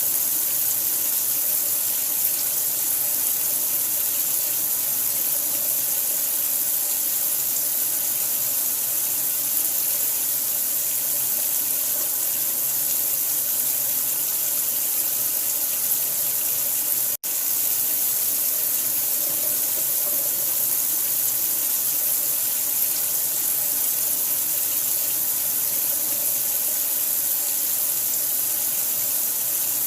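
Steady hissing rush of running water, like a tap pouring into a sink, with a split-second break a little past halfway through.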